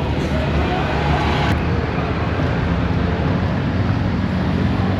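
Steady street traffic noise with a low rumble, and a sharp click about one and a half seconds in.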